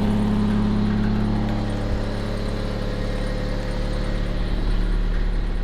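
Honda Civic engine idling steadily.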